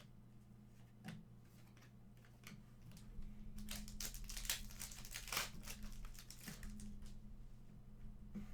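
A trading-card pack wrapper is torn open and crinkled, with a dense run of crackling in the middle stretch and scattered handling clicks around it, over a faint steady electrical hum.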